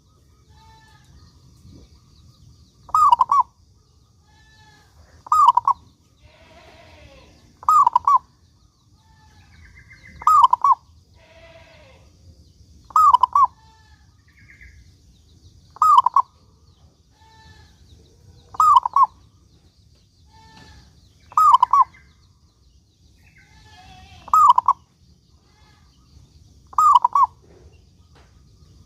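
Zebra dove (perkutut) singing: a short cooing phrase repeated ten times, about once every two and a half to three seconds. Fainter chirps of other birds come between the phrases.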